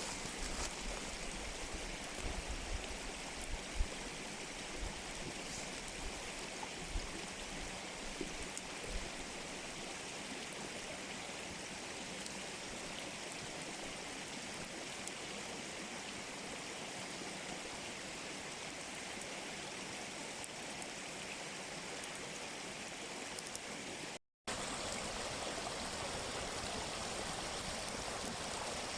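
Mountain stream running steadily over rocks, with a few soft knocks in the first nine seconds. The sound drops out for a split second about 24 seconds in, then the water carries on.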